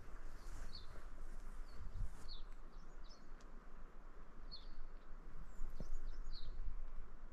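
A bird giving short, high chirps every second or so, over a steady outdoor hiss and a low rumble.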